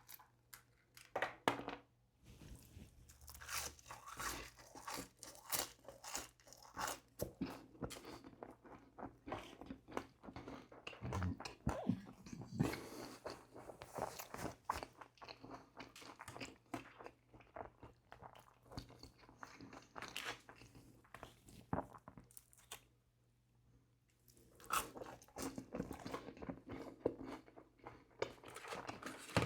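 A person chewing and biting McDonald's food with a steady crunching crackle, pausing briefly about two seconds in and again for a moment past the middle.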